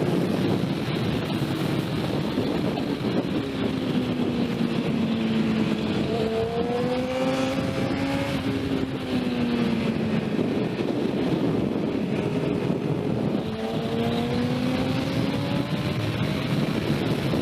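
Motorcycle engine running under heavy wind noise on the microphone, its pitch slowly sinking and rising again a couple of times.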